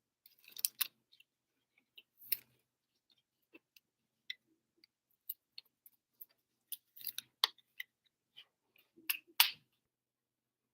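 Trading cards being handled and slid against each other, a scatter of faint clicks and rustles with a few louder card snaps.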